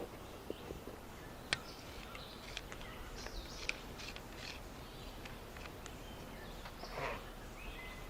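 Birds chirping in short, scattered calls over a faint outdoor background, with a few sharp clicks between them.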